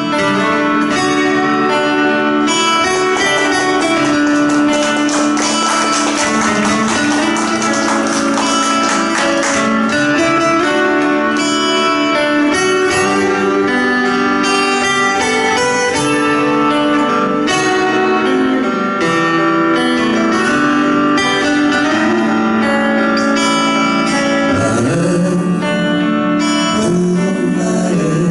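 Instrumental break in a live folk-pop song: guitar playing over a full backing band, with no lead vocal.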